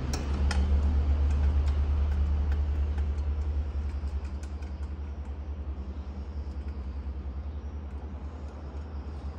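Low, steady machine rumble with a fast flutter, loudest at the start and slowly fading, with a few faint light clicks.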